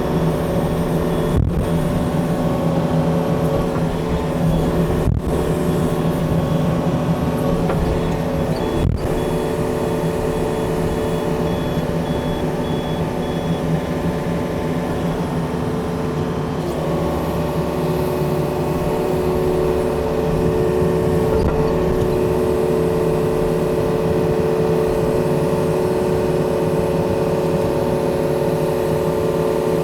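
Yanmar excavator's diesel engine running steadily as the machine works, its note shifting slightly a little past the middle.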